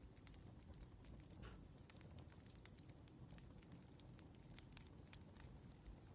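Faint crackling of a burning wood fire: small, irregular sharp pops and snaps over a low hiss.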